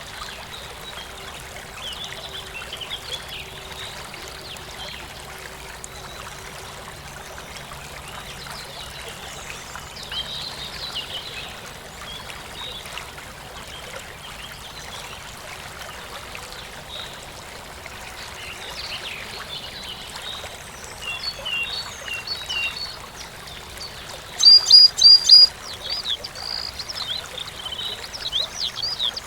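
A small stream trickling steadily, with songbirds chirping over it. Near the end a bird gives a run of about four loud, sharp, high notes, followed by quicker chirping.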